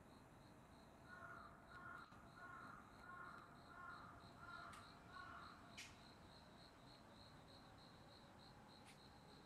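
A bird calling a run of about seven short, evenly spaced calls, faint against a quiet background, over a steady, high, faint pulsing chirp of about three or four beats a second.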